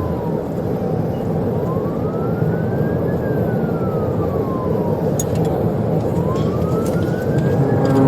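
Police siren on a slow wail, rising and falling about every four and a half seconds, over the loud, steady road and engine noise of a vehicle in a high-speed pursuit, heard from inside the cabin.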